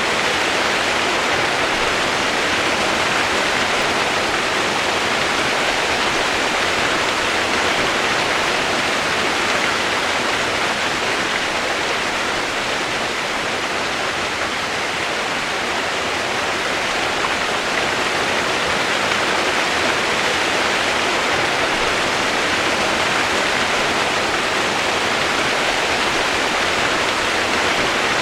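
Steady rushing water: an even, unbroken hiss with no separate splashes or drops.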